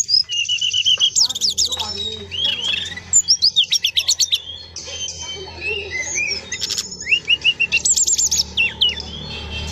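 Brown-chested jungle flycatcher song: rapid high trills and fast sweeping whistled notes, with runs of quickly repeated notes and short gaps between phrases.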